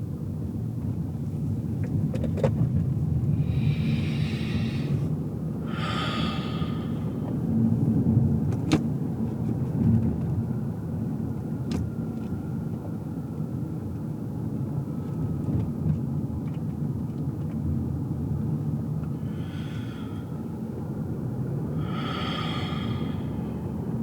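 Steady low rumble of a car's engine and tyres heard from inside the cabin while driving. Short hissing swells come and go twice early on and twice near the end, and there are a few faint clicks.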